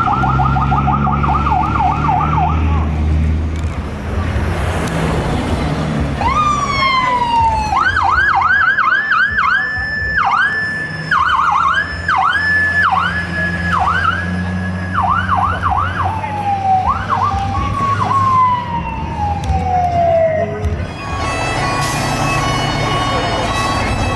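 Fire trucks' electronic sirens: a rapid warble for the first few seconds, then a siren sweeping up and down in fast yelps and ending in a long falling slide, over the rumble of diesel engines. Near the end a steady, buzzy air horn sounds.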